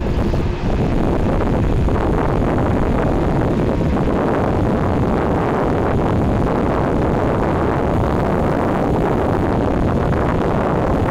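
Steady rumbling wind noise on the microphone aboard a moving excursion boat, mixed with the boat's engine running.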